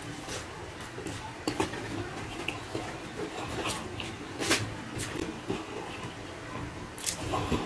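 A man chewing with his mouth open and smacking his lips while eating rice and stingray stewed in coconut milk by hand, with irregular sharp wet mouth clicks.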